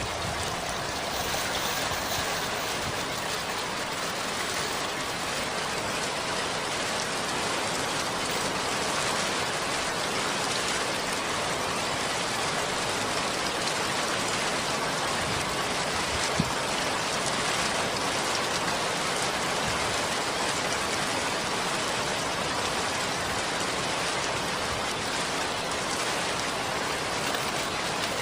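Steady, even hiss of rain falling, with one sharp tick about sixteen seconds in.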